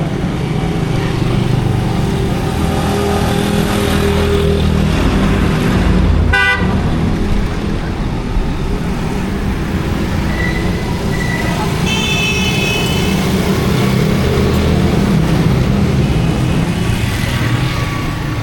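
Busy street traffic: vehicle engines running steadily, with horns tooting, including a short horn blast about twelve seconds in.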